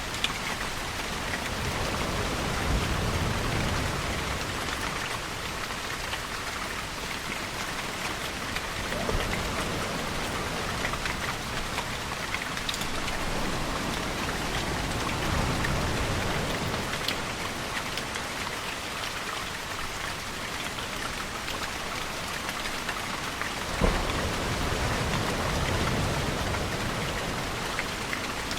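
Steady rain falling, a continuous even hiss, with slow low swells rising and fading every ten seconds or so. One sharp tap stands out late on.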